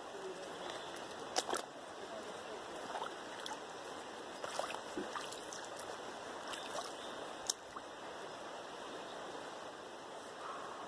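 Steady rush of a flowing river, with a few sharp clicks and knocks over it, the loudest about a second and a half in and again near the middle and about three quarters of the way through.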